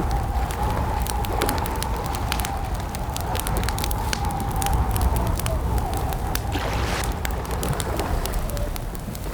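Campfire crackling, with sharp snaps and pops over a steady low rumble. A long, slightly wavering tone sounds alongside it and fades out near the end.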